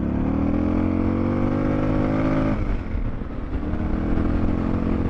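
Suzuki DR650's single-cylinder four-stroke engine pulling under way, its pitch rising slowly, easing off about halfway through, then climbing again.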